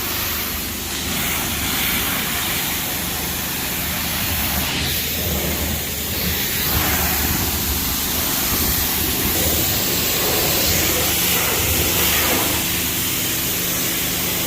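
Steady road and engine noise heard inside a moving car: a broad hiss of tyres and wind over a low, even engine drone.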